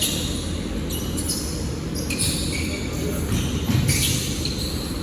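Basketball game court noise, with the ball bouncing and short bursts of higher-pitched noise every second or so over a steady low rumble.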